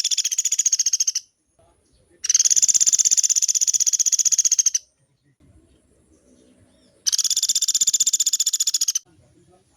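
Pelatuk beras woodpecker calling in long, rapid rattling trills: three fast runs of evenly spaced notes, each lasting about two seconds, with short pauses between.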